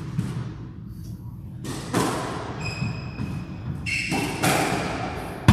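Squash rally: a squash ball is struck by rackets and hits the court walls as a series of sharp thuds, the loudest near the end, with brief high squeaks of court shoes on the floor in between.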